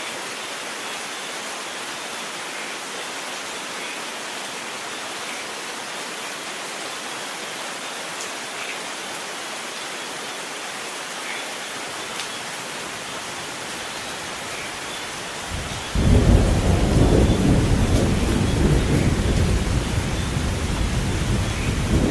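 Steady rain falling, with a loud low rumble of thunder breaking in suddenly about three-quarters of the way through and rolling on to the end.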